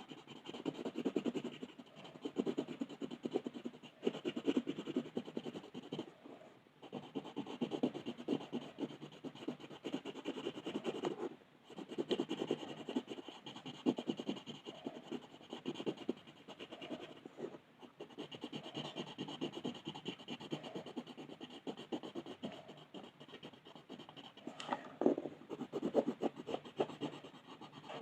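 Rapid back-and-forth colouring strokes scratching on paper, in runs of a few seconds broken by short pauses, with one sharper scrape near the end.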